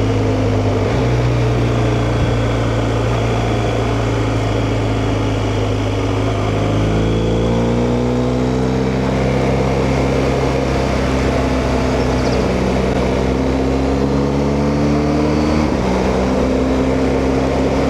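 BMW R1250GS boxer-twin motorcycle engine running while riding, with wind and road noise. The engine note is steady, climbs in pitch over a couple of seconds about seven seconds in, and shifts again near the end.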